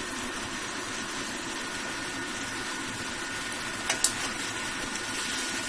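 A pot of chicken curry simmering on the stove, a steady hiss, with two sharp clicks about four seconds in.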